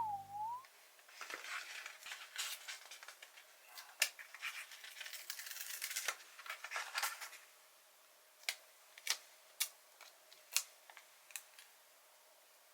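Sticker being peeled off its paper backing: faint crackling and rustling of paper for several seconds, then five separate sharp taps. A cartoon whistle sound effect ends just at the start.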